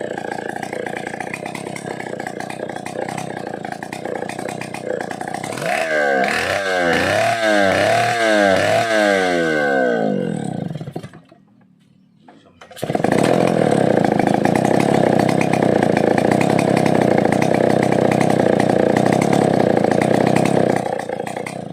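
Stihl 070AV two-stroke chainsaw engine running, revved up and down several times, then dying away. After a brief pause it starts again suddenly and runs steadily, catching on a single pull.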